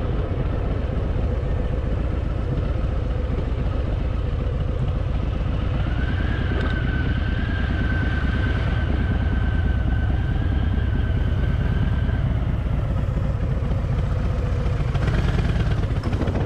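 Harley-Davidson Fat Boy's V-twin engine running steadily at highway speed, a deep rumble under wind rush, with a thin steady high whine for several seconds from about six seconds in.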